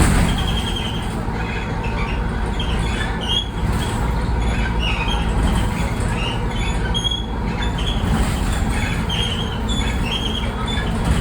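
City bus body parts squeaking and squealing in short, irregular high-pitched cries over the steady rumble of the moving bus. The squeals sound like dinosaur calls.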